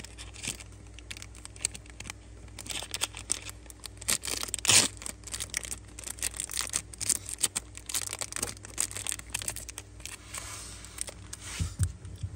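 Rustling and many light clicks of small items being handled, as Zippo lighters are picked up and set down, with one sharper click a little before the middle.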